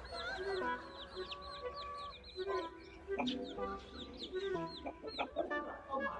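Baby chicks peeping: a steady run of short, high peeps, each one dropping in pitch, repeating a few times a second.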